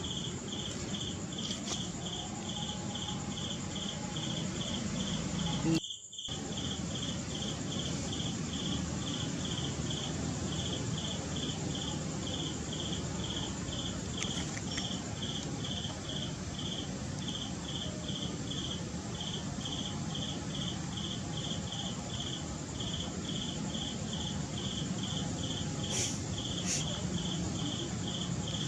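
Insect chirping in a steady train of evenly spaced, high-pitched pulses over a constant background hiss; the sound cuts out for a moment about six seconds in.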